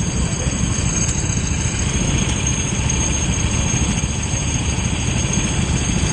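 Kart engine running steadily, heard through an onboard camera, under a dense rumble of wind and road noise.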